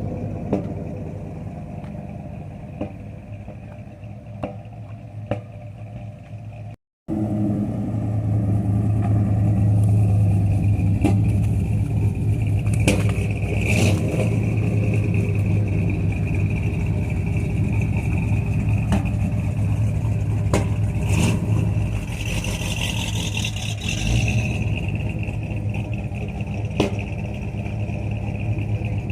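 1969 Chevelle SS big-block V8 running at idle with sharp pops from the exhaust scattered through it; the popping has no known cause. Before that, about seven seconds in, a fading engine rumble with a few clicks cuts off.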